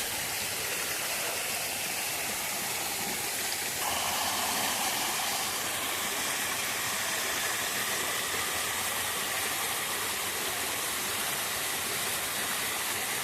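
Stream water rushing steadily, a little louder and fuller from about four seconds in.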